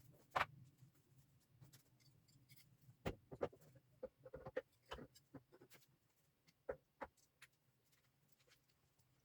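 Scattered light clicks and taps of parts or tools being handled. The sharpest comes about half a second in, a cluster follows from about three to five seconds, and two more come near seven seconds.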